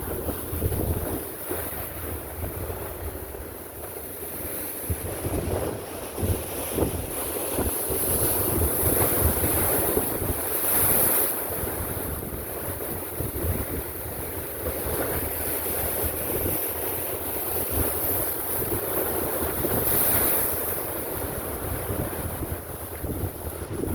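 Ocean waves surging and breaking against a rocky cliff, a steady rushing wash that swells louder twice as bigger waves come in, with wind buffeting the microphone.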